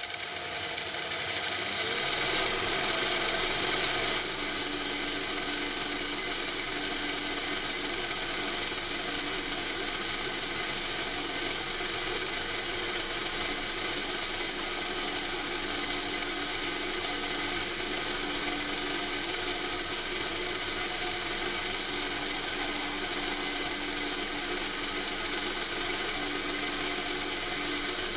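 A power tool spins up at the start and then runs steadily with a continuous rasping hiss, easing off slightly about four seconds in.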